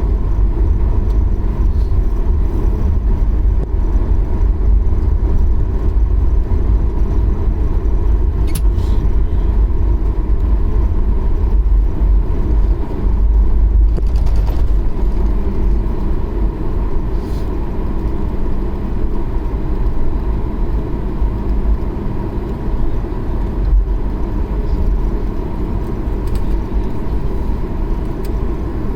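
Jet airliner cabin noise while taxiing after landing: a steady low rumble with a constant hum from the idling engines.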